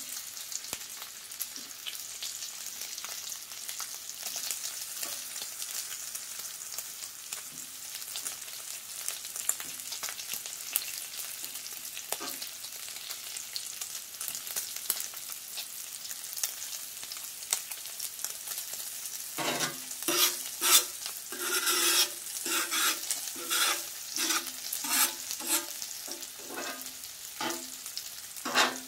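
Bacon and sliced onions sizzling on a hot steel griddle top with a steady hiss. About two-thirds of the way in, a run of louder scrapes and clacks starts as metal tongs push the food across the griddle surface.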